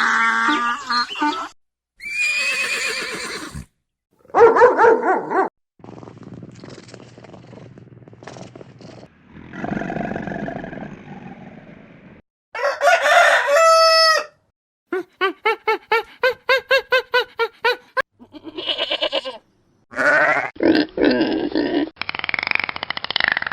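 A run of different animal calls, one short clip after another, each cut off by a brief silence. One clip about two thirds of the way through is a fast, even train of pulses.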